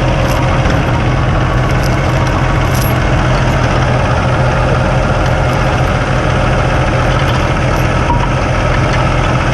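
Heavy truck diesel engine idling steadily, with a low, even hum.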